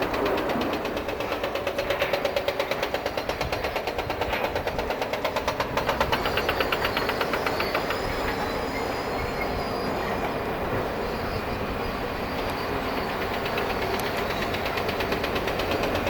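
A large engine running with a rapid, even pulse, strongest in the first half.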